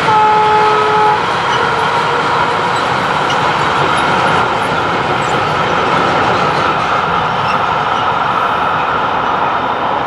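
Long freight train of enclosed car-carrier wagons rolling past, a steady noise of wheels on rail. Just after the start a horn sounds once, for about a second.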